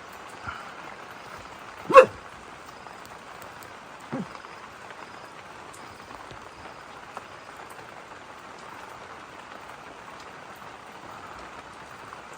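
Steady rain, with one loud short animal call about two seconds in and a shorter, lower call about two seconds later.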